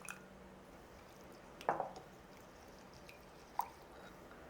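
Lime juice going into a small bowl of fish-sauce dressing: two faint drips, about a second and a half in and again near the end.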